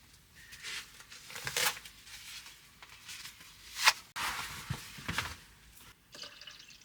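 Handling noises in a small room: several short rustling, crinkling swishes, with one sharp tap about four seconds in.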